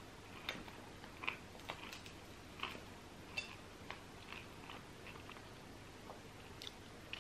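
Close-miked chewing of baguette and cheese: faint, irregular wet mouth clicks and soft crackles of bread crust.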